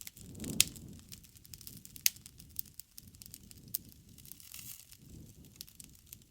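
Wood fire burning, with irregular sharp crackles and pops over a low rush of flame; the loudest pops come about half a second and two seconds in.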